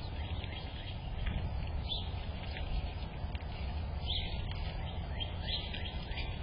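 Small birds giving a few short, high chirps over a steady low rumble.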